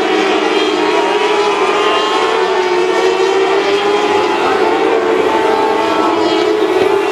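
Mini sprint race car engines running hard at high revs on a dirt oval, a steady loud drone whose pitch wavers slightly and climbs a little near the end.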